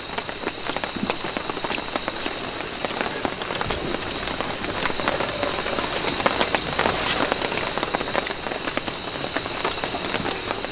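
Rain falling steadily on a camp tarp overhead: a continuous hiss broken by many small, irregular drop taps, with a steady high tone underneath.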